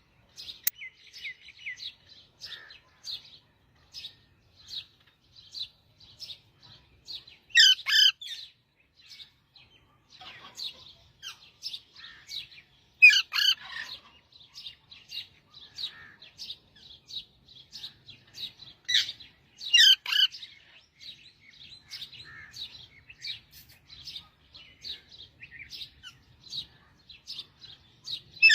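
A parrot chirping in a steady run of short, high chirps, about two a second, with several louder calls a little before the middle and again about two-thirds of the way through.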